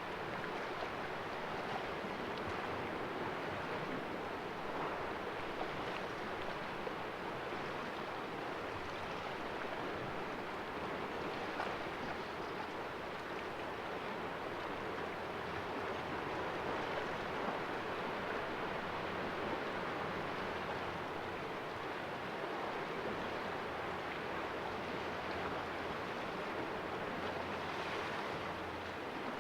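Sea waves splashing and washing against rocks in a small cove, a steady wash that swells and eases gently.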